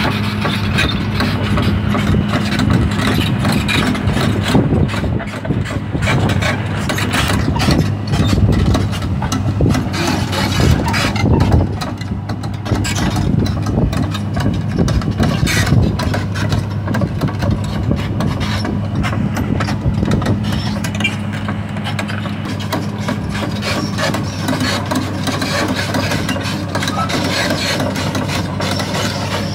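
Sany SR150C rotary drilling rig's diesel engine running steadily with a constant hum while the rig travels on its crawler tracks, with irregular clanks through the run.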